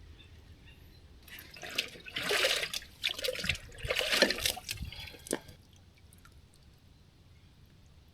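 Water sloshing and gurgling in four or five short bursts over about four seconds as a container is filled with water for filtering.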